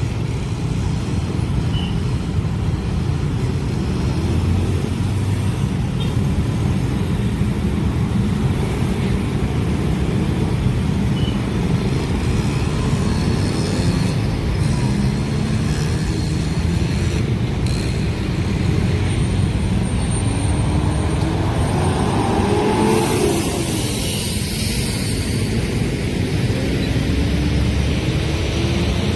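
Road traffic with a steady engine rumble. Vehicles accelerate away with rising engine pitch about 22 seconds in and again near the end.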